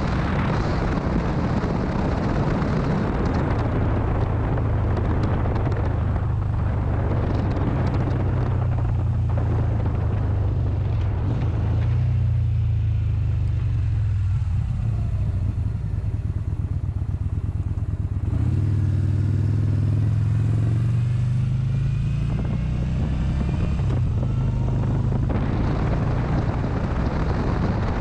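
Motorcycle engine running under way, a steady low drone, with wind rushing over the microphone. The wind noise fades through the middle stretch, leaving mostly the engine, then returns strongly near the end.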